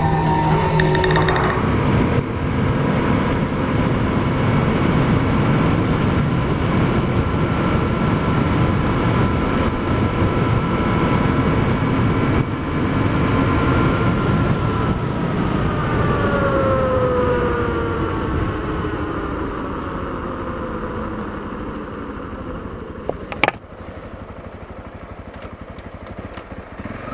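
Honda CRF250L single-cylinder motorcycle engine running under way, with wind rush. Past the middle its pitch falls as the bike slows, and it settles lower and quieter. There is one sharp click near the end.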